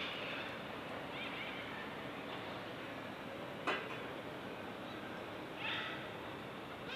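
Birds calling in short bursts at the start, about a second in and again near the end, over a steady background hiss, with one sharp knock about midway.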